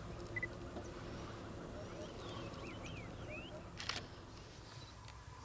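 Small birds chirping in short rising and falling notes, mostly about two to three seconds in, over a low steady rumble, with one sharp click about four seconds in.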